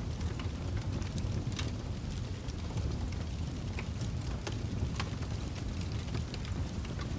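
Fire crackling in a fireplace: a steady low rumble of the flames with scattered sharp pops and snaps, a couple of louder pops about one and a half and five seconds in.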